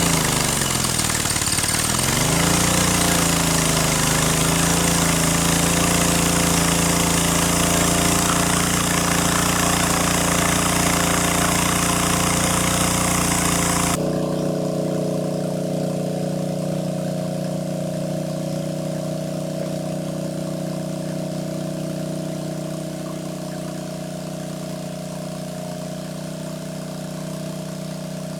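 A small engine running steadily, its pitch wavering for the first few seconds before settling. About halfway through the high hiss drops away suddenly and the engine note carries on, a little quieter.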